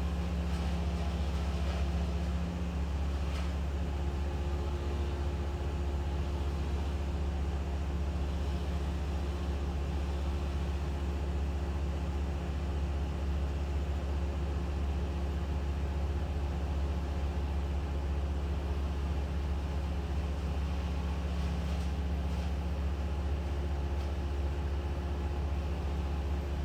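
An engine running steadily at constant speed, with a low hum and a few steady tones that do not change.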